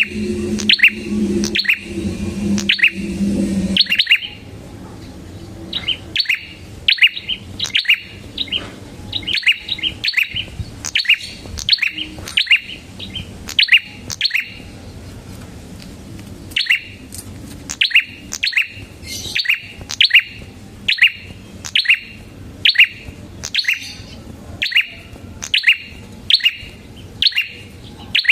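Red-headed prenjak (a small prinia-type songbird) calling in a long run of short, sharp chirps, about two a second, with quicker clusters here and there. A low hum sits under the calls and stops about four seconds in.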